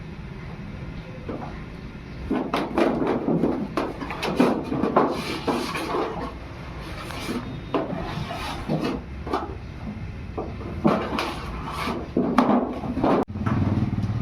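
Irregular scraping, rubbing and knocking strokes from hand work on scrap sheet steel, starting about two seconds in, over a steady low workshop rumble.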